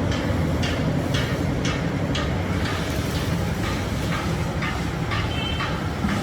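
Heavy machinery running with a steady low rumble and a regular metallic clack about twice a second.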